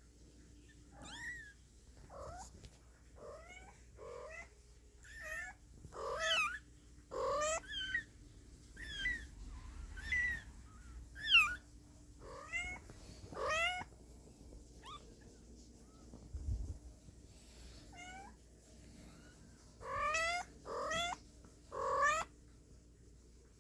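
Newborn kittens mewing: a string of short, high-pitched mews that rise in pitch, scattered irregularly, with the loudest near the middle and three in quick succession near the end.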